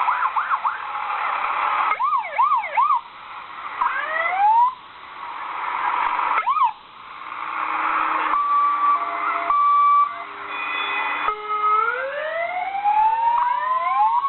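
Fire engine sirens sounding together. Quick up-and-down wailing sweeps give way to short rising whoops and steady held tones, and about eleven seconds in a siren winds slowly up in pitch.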